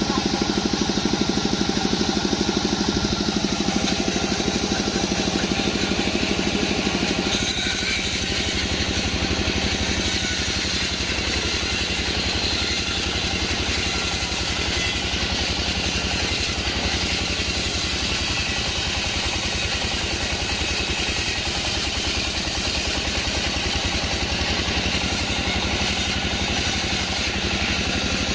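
Sawmill band saw machinery running steadily with an engine-like hum. About seven seconds in the sound changes, adding more high-pitched hiss, and then holds steady.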